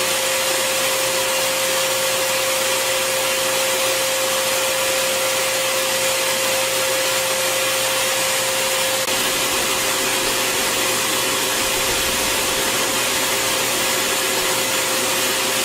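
Bissell Garage Pro 18P03 wall-mounted wet/dry vacuum's 12-amp motor running in blower mode: a steady rush of air with a constant whine.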